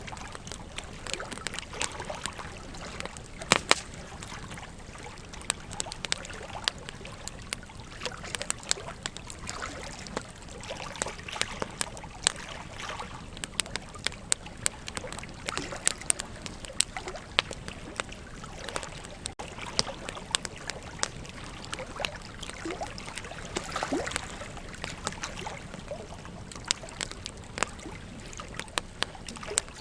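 Wood fire crackling with frequent sharp pops, the loudest about three and a half seconds in, over the steady rush of flowing river water.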